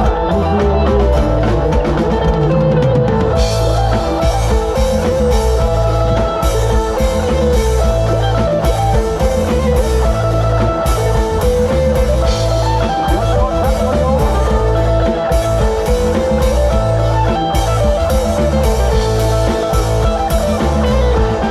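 Live band music without vocals: a plucked-string lead, like an electric guitar, plays a melody over a drum kit and heavy bass with a steady beat.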